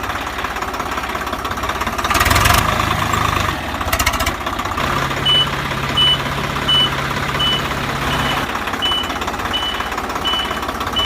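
Vehicle engine running with a steady rapid chug, louder for a second or so about two seconds in. From about five seconds in, a reversing alarm beeps regularly, about every 0.7 seconds.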